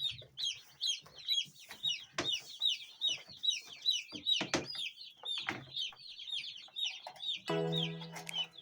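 A brooder full of day-old broiler chicks peeping nonstop, a dense chorus of short falling cheeps, with a few light knocks among them. Music comes in about a second before the end.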